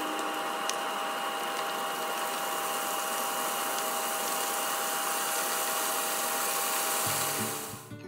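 Battered calamari rings deep-frying in a pot of hot oil, a freshly added batch bubbling hard: a steady sizzle. Music comes in about seven seconds in.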